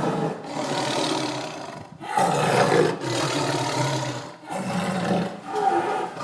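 Tiger roaring repeatedly: a string of long, rough roars of about two seconds each, with brief pauses about two seconds and four and a half seconds in.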